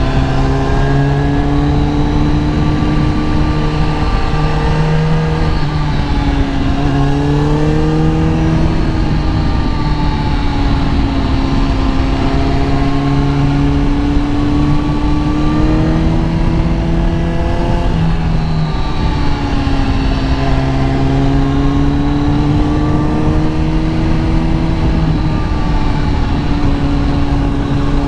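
Kawasaki ZX-10R inline-four engine under way, its revs rising and falling with the throttle, with a few sudden drops in pitch at gear changes, over a steady low rush.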